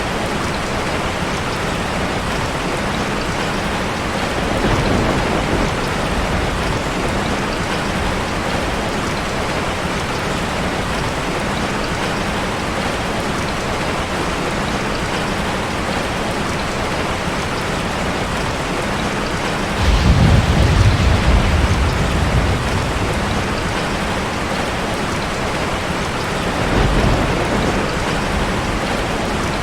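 Steady rushing of falling water, a dense even hiss, from a waterfall ambience track. Deep low rumbles swell over it three times, the longest and loudest lasting about three seconds just past the middle.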